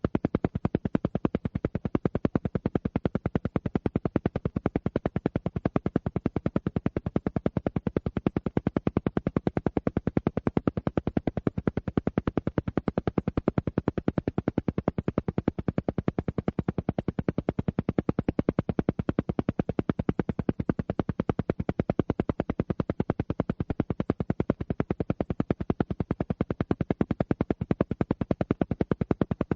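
Alpha-wave brainwave-entrainment sound: a low tone pulsed on and off in a rapid, perfectly even stream of beats, many per second, without change.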